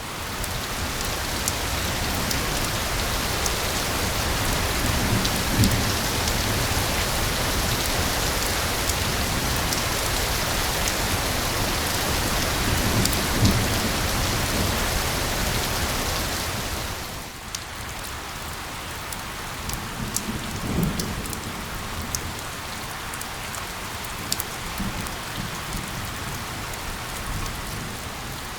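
Steady rain, a dense even hiss, with a few low rumbles through it. About two-thirds of the way in the rain drops a little in level and thins.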